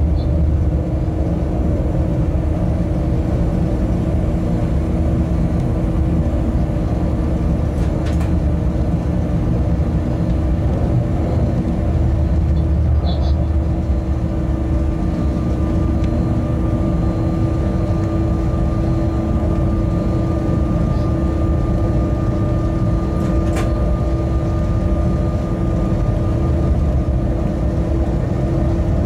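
Freight train locomotive running at speed along the track, heard from the cab: a steady low rumble with a constant hum. A faint higher whine joins about halfway, and there are two faint ticks.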